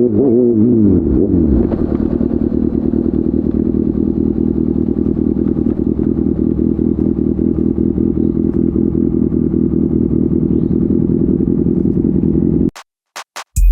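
Kawasaki ZX636R inline-four through an SC Project slip-on exhaust, its revs dropping back over the first second or so and then settling into a steady idle. Near the end the sound cuts off abruptly, with a few brief clicks.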